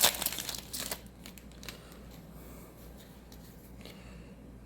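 A foil booster pack wrapper crinkling and tearing open in the first second, followed by faint rustling and ticks of cards being handled.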